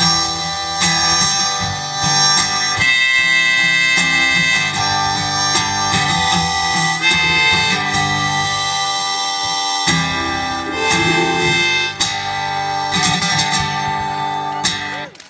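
Harmonica playing the closing instrumental over a strummed acoustic guitar. The music stops just before the end.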